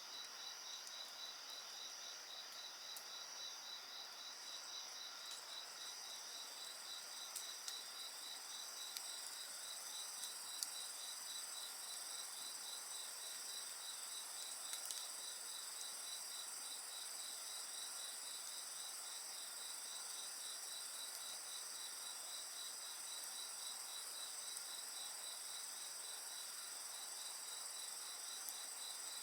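Several insects calling steadily at high pitch, overlapping, one with a fast, even pulsed trill. A few faint crackles of a wood fire.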